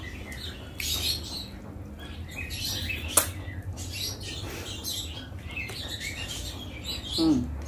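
Close-up eating sounds: chewing and wet mouth sounds with small irregular clicks and smacks, and one sharp click about three seconds in, over a low steady hum.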